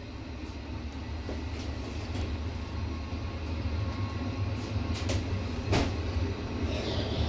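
Passenger train rolling along the track, heard from the rear carriage: a steady low rumble that grows slowly louder as it picks up speed, with a few sharp clicks about five to six seconds in.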